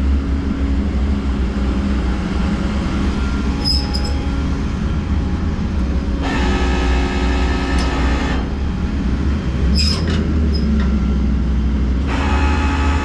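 Tow truck's engine running with a steady low rumble. Twice a high, many-toned whine or squeal sounds for about two seconds, and there are a couple of sharp clicks.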